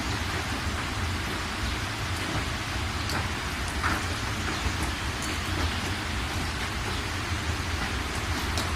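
Steady rain falling, with scattered individual drops ticking and a low rumble beneath.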